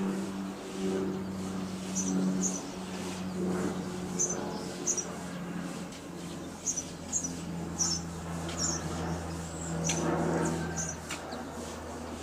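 Small birds chirping: short, high-pitched chirps, often in quick pairs, repeating every second or so. Under them runs a steady low hum.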